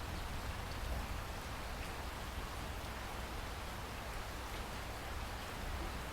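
Steady rainfall, an even hiss with scattered drop ticks over a low rumble.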